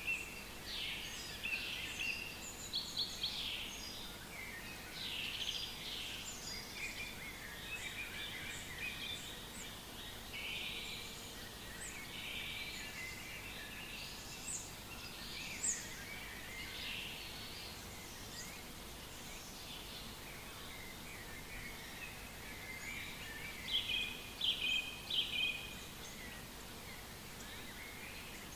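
Several songbirds singing and calling in a forest, a dense overlapping chorus of short chirps and trills over a faint steady background hiss, with a burst of louder notes near the end.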